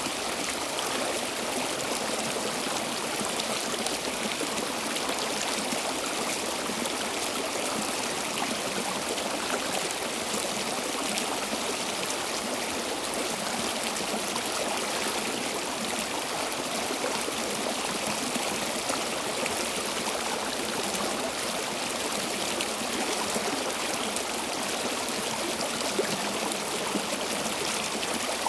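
Stream water flowing steadily over rocks, a continuous even rush with fine trickling and splashing.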